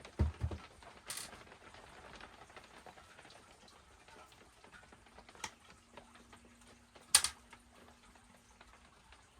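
Small metal parts and hand tools being handled, with scattered light clicks; two low thumps just after the start and a sharper clack about seven seconds in, the loudest sound.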